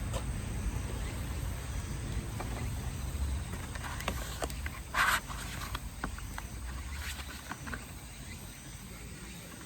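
Wood campfire crackling, with scattered small pops and one louder pop about five seconds in, over a low rumble that fades near the end.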